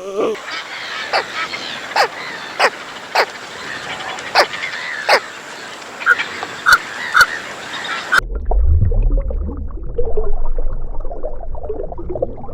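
Farm birds calling in a run of short, sharp honks, about two a second. About eight seconds in the sound cuts abruptly to a low rumbling noise.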